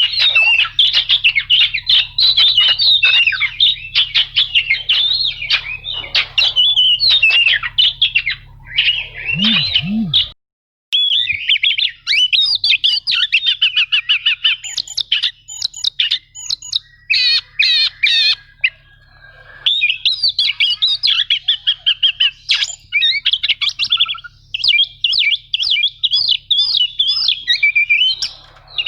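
Oriental magpie-robin (kacer) singing a long, fast run of chattering and whistled phrases, with a short break about ten seconds in.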